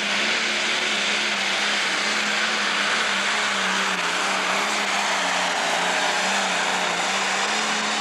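Turbocharged diesel engine of a pro stock pulling tractor running flat out under load during a pull, a loud steady howl with a slightly wavering pitch.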